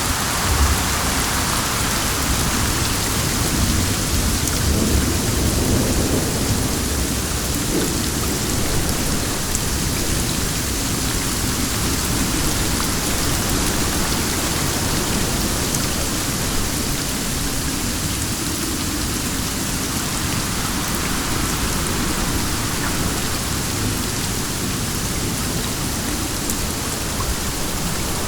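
Steady heavy rain with wind, an even hiss of drops, with a low rumble in the first few seconds.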